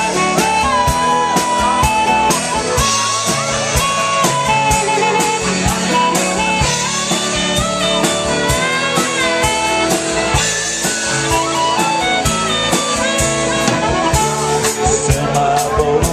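A live band playing a song: drums keep a steady beat under held melody notes.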